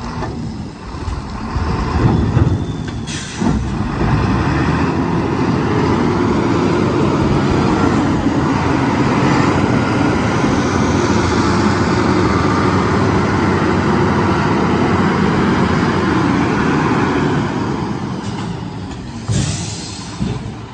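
Sinotruk HOWO tipper truck's diesel engine running. It grows louder about three and a half seconds in, holds steady, then drops back near the end. A short air hiss comes just before the engine grows louder, and another comes near the end.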